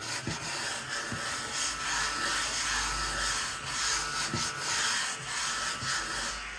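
Continuous dry rubbing and scraping on paper, uneven in strength, with a low rumble underneath from about two seconds in.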